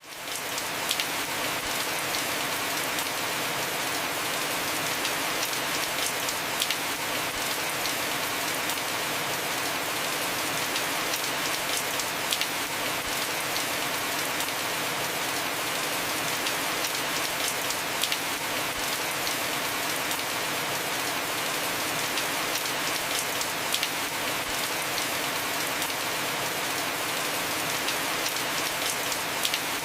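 Heavy rain falling steadily on a house roof, an even hiss with occasional louder individual drop hits.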